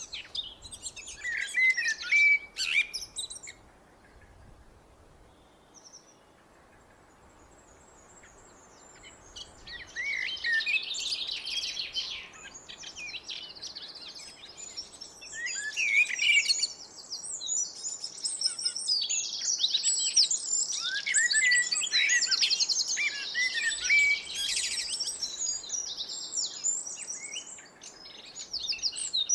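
Blackbird singing: a few phrases in the first three seconds, a pause of several seconds, then near-continuous song with rapid high trills and twitters from about ten seconds in.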